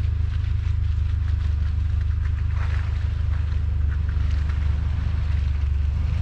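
SUV engine running at low revs as it crawls along a muddy track: a steady low rumble, with short bursts of higher noise about two and a half seconds in and again near four seconds.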